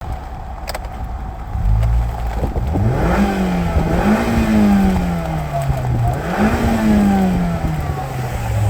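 Mazda 5's 2.0-litre LF inline-four petrol engine running, revved up three times, each time slowly falling back toward idle.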